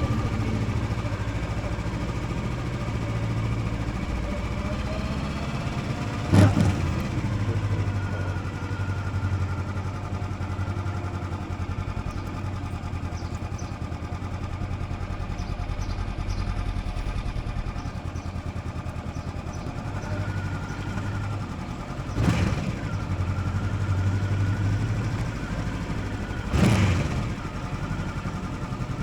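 Motorcycle engine running under way, its pitch shifting as it accelerates and eases off. Three brief loud bursts of noise break through, one about six seconds in and two near the end.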